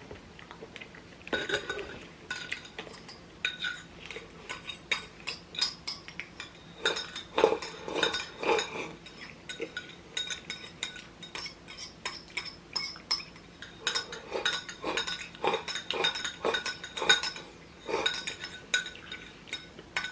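Eating utensils clinking and scraping against a bowl or plate: many short, irregular clinks in quick succession, starting about a second in.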